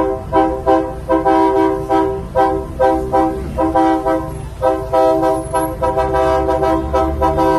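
Truck horn sounding a multi-note chord in a rapid string of short blasts mixed with longer held ones, over a low engine rumble.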